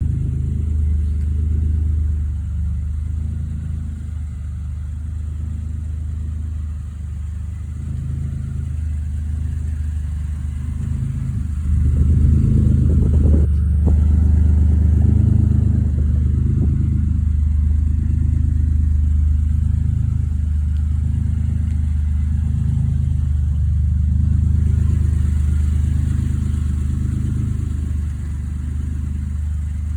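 Dodge Ram pickup truck's V6 engine running steadily while driving, with a low drone; it pulls harder and grows louder a little before halfway and stays up. A short click comes just after it gets louder.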